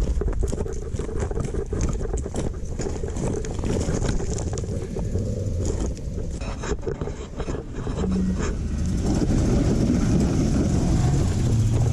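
Toyota 4Runner engine running on an off-road trail, with scattered knocks and crunches over the low rumble. The engine grows louder and steadier from about nine seconds in.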